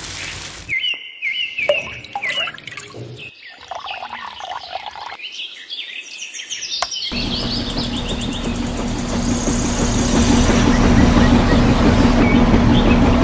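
Birds chirping in short repeated calls over choppy, cut-up sound. About seven seconds in, a steady motor hum with a low pulsing rhythm starts up and grows louder.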